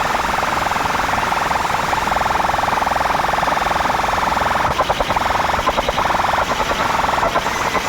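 Loud, buzzy siren-like competition horn played through a DJ sound system's speakers, holding a steady tone that stutters in rapid pulses about five seconds in.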